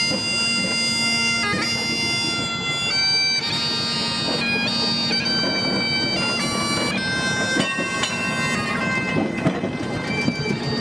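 Bagpipes playing a tune: the melody steps from one held note to the next over a steady drone.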